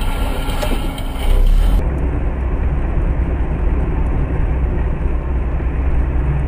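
Car driving, heard from inside the cabin: steady road and engine rumble, with an abrupt switch to a duller recording about two seconds in.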